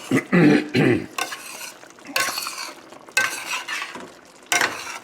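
A pot of thick chicken and cream sauce being stirred and scraped, in strokes about once a second, as beurre manié thickens it.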